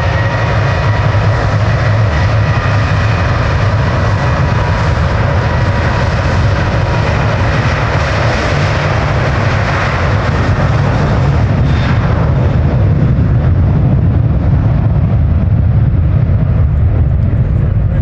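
Jet airliner's engines running as it passes and draws away, with a heavy low rumble. Thin whining tones fade early on, and the sound turns duller after about twelve seconds.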